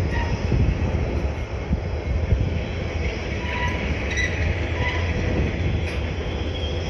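Illinois Central diesel locomotives rolling slowly past, with a steady low rumble from the engines and wheels on the rails. A few brief, high wheel squeals come around the middle.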